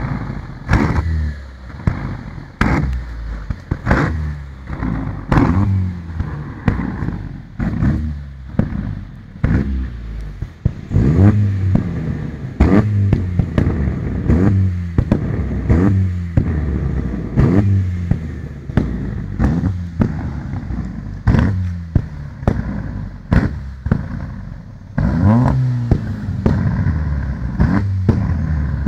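Proton Iswara's four-cylinder engine revved over and over, each rev rising and falling in pitch, about one every second or so. Each rev brings sharp bangs and crackles from a flame-exhaust kit firing in the exhaust.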